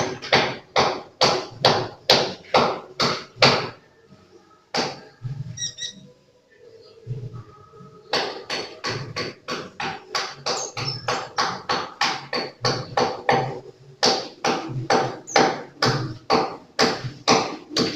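Rhythmic sharp taps or knocks, about three a second. They pause for a few seconds, with only a single knock, before resuming at the same pace.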